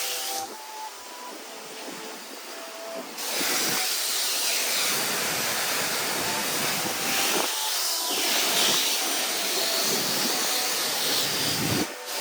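High-pressure water spray hissing steadily against a car, softer for the first few seconds and then louder and even, with slow swells as the spray moves.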